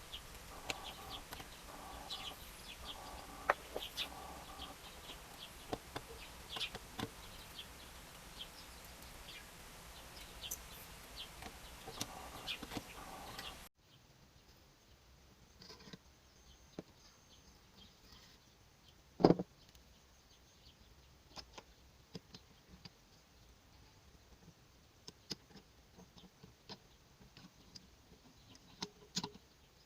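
Scattered clicks and knocks of hand tools and metal engine parts being handled while an NSU Maxi 175 two-stroke engine's gear housing is stripped. There is a sudden change in the background hiss partway through, and a single sharper knock comes about two-thirds of the way in.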